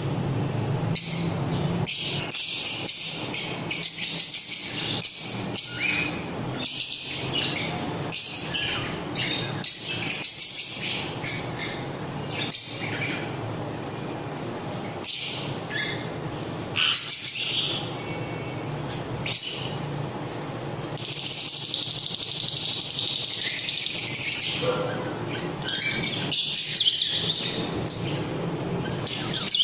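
Many caged pet parrots chirping and chattering at once, their shrill calls overlapping without pause, over a low steady hum.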